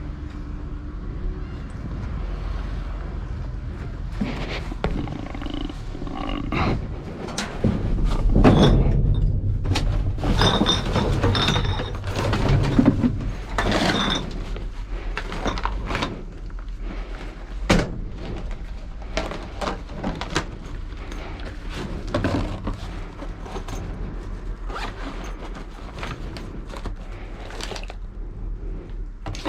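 Repeated knocks, clicks and rustling, loudest in a stretch about a third of the way in, over a steady low hum.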